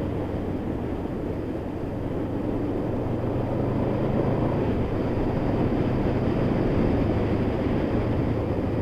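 Honda VFR800's V4 engine running steadily while riding, mixed with wind and road noise; the sound swells a little and eases off near the end.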